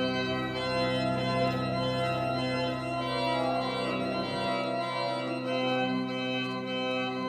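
Pipe organ playing sustained full chords, with the bass pedal notes dropping out about four and a half seconds in.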